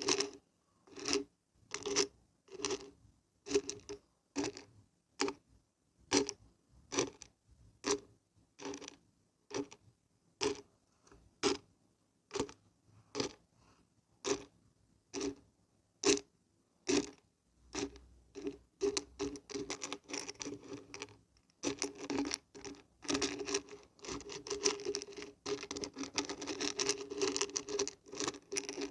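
Dried beans and barberries being shaken, rattling in a steady rhythm of one sharp shake about every second, then speeding up into a fast, almost continuous rattle over the last third.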